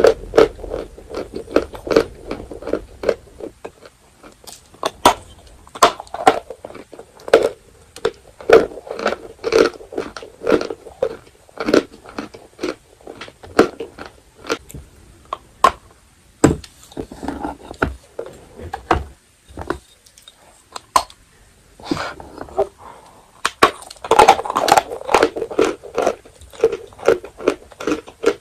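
A person biting and chewing dry edible chalk: crisp cracks and crunches in clusters, with a few short lulls between bites.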